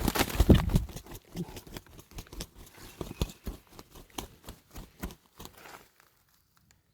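A wounded, still-living red junglefowl hen flapping and thrashing on the ground: a run of rapid knocks and rustles, loudest in the first second, stopping about six seconds in.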